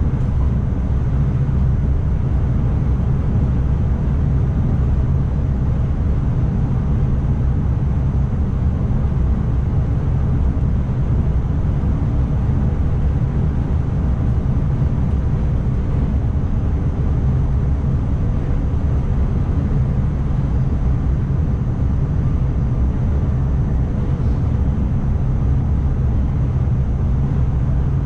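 Steady running noise of an ICMm electric multiple unit at speed, heard from the driver's cab: a deep, even rumble with a faint high whine.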